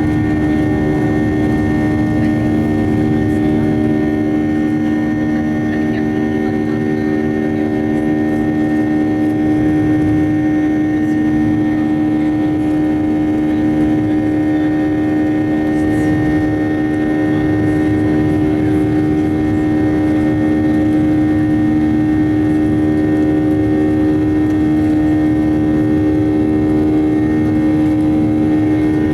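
Steady drone of a Ryanair Boeing 737-800's CFM56 turbofan engines heard inside the cabin: a constant hum of several held tones, strongest at a low pitch, over an even rush of air noise.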